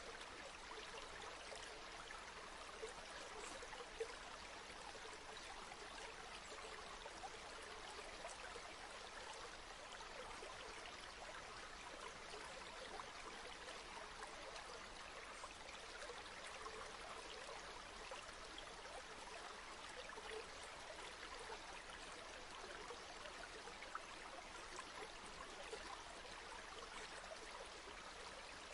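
Flowing river: a faint, steady rush of running water with small irregular splashes.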